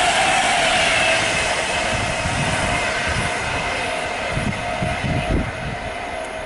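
An InterCity 225 electric express running away past the lineside, its rushing wheel and air noise fading steadily. A whine drops slightly in pitch early on, and a few low thumps come in the second half.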